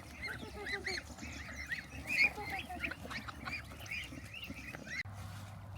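A flock of ducks calling, many short overlapping calls at once; they cut off abruptly about five seconds in, leaving a low steady hum.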